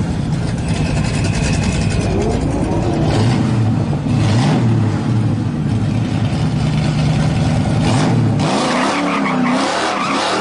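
Vehicle engine running, its pitch rising and falling as it revs. About eight and a half seconds in, the low engine note drops out.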